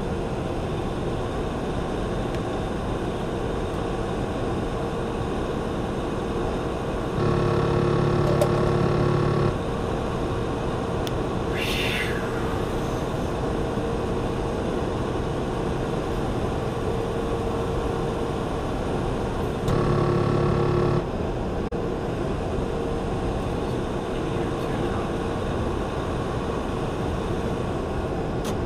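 Steady engine and road drone inside a moving truck's cab, with a faint steady hum. Twice a louder electronic tone with several steady pitches cuts in and stops abruptly: for about two seconds around seven seconds in, and for about a second near twenty seconds. A short hiss comes around twelve seconds in.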